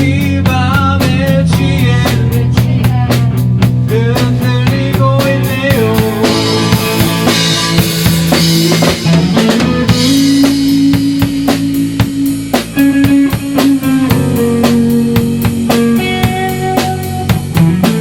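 Rock band playing live without vocals: a drum kit keeps a steady, busy beat with snare and kick under sustained electric guitar and bass notes.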